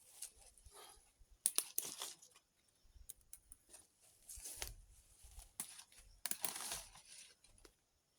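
Chili plants being pruned: leaves rustling and stems snapping off in several short bursts, with a few sharp clicks.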